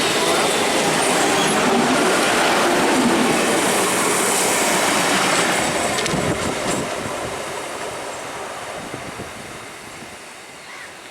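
Indian EMU (electric multiple unit) local train running past on the rails, wheels and coaches loud at first, then dying away from about six seconds in as it moves off.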